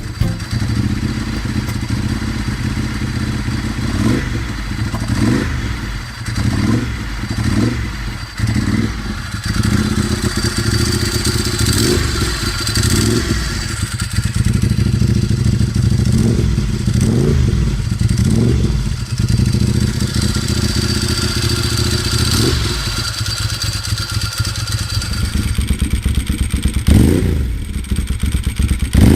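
Ducati 748's V-twin engine running through its exhaust and revved in many short blips, each climbing and dropping back quickly, with one longer rev near the end.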